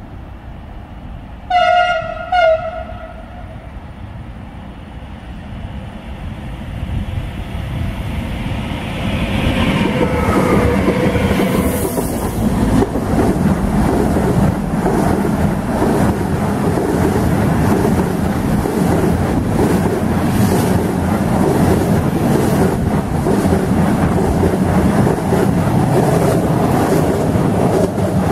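A train horn sounds two short blasts. Then a freight train carrying lorries on low wagons comes closer and runs past at speed: a long steady rumble and clatter of wheels on the rails.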